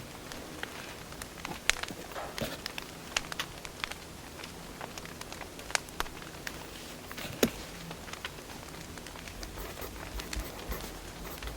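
Wood fire crackling: irregular sharp pops and snaps over a steady low hiss, with a few louder pops, one about two seconds in and one past the middle.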